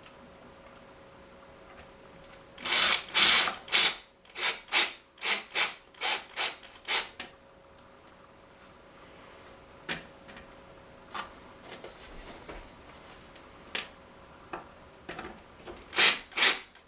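Short, rhythmic rasping strokes of hand work on the door's hinge parts, a quick run of about two strokes a second after a few seconds, then scattered single scrapes and clicks, then another quick run near the end.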